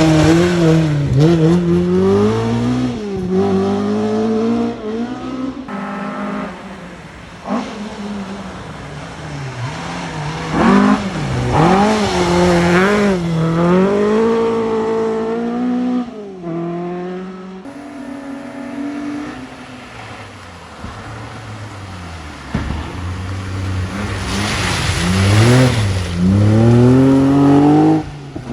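Rally cars coming through a forest special stage one after another, each engine revving hard and rising and falling in pitch through gear changes as it passes. The sound changes abruptly a few times as one car gives way to the next.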